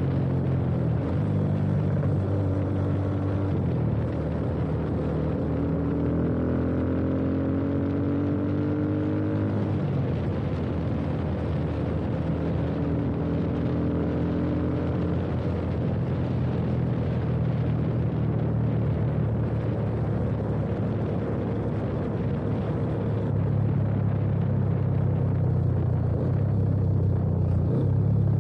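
Yamaha FZ25 single-cylinder engine running through an aftermarket slip-on exhaust while riding, with a steady low note; the pitch rises for several seconds about a third of the way in, then settles back.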